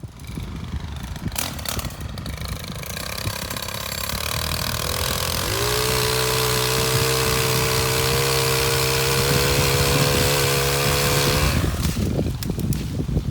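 Small engine of a STIHL KM 131R power head driving a pole saw. It runs unevenly at first, revs up about four to five seconds in, holds steady at high speed for about six seconds, then drops back near the end.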